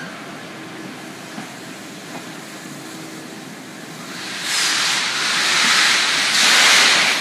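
Train of coaches behind a Class 66 diesel locomotive rolling slowly past a station platform with a steady rumble. About four seconds in, a loud hiss rises and comes in two surges, the second the loudest, easing off near the end.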